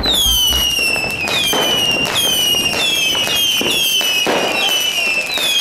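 Whistling fireworks fired in quick succession: about a dozen overlapping whistles, each starting high and falling in pitch over about a second, mixed with sharp launch pops.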